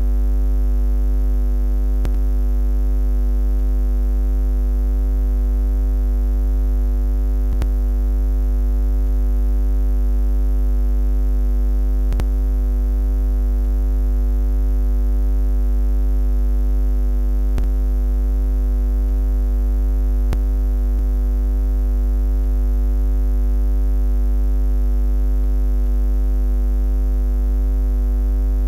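Steady low electronic buzz, a continuous drone that does not change, with a few faint clicks now and then.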